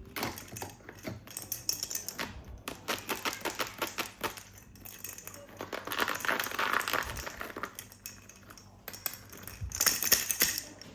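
Plastic toy packaging and parts being handled: a quick string of clicks and taps, with louder crinkling around six seconds in and again near the end.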